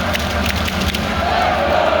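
A large arena crowd cheering and shouting together, loud and unbroken, with sharp claps scattered through it.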